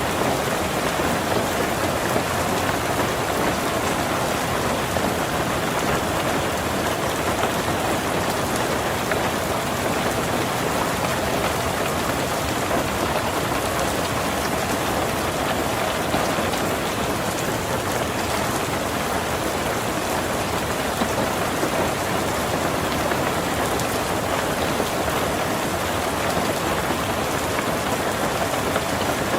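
Heavy rain falling steadily on a tin roof, a dense even patter with no breaks or thunder.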